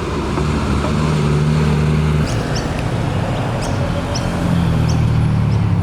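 Car engines running at low speed as cars roll past, a steady low engine note that changes pitch about two seconds in. A few short high chirps sound over it.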